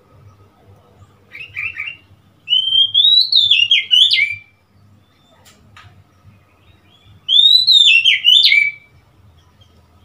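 Oriental magpie-robin singing. A few quick notes lead into a loud whistled phrase that climbs and then drops in pitch, and the same phrase comes again a few seconds later.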